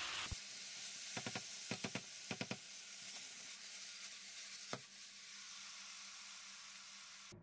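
Stir-fried beef, onion and bell pepper sizzling softly in a hot pan, with a few short clicks as the food is mixed, most of them in the first few seconds and one more near the middle.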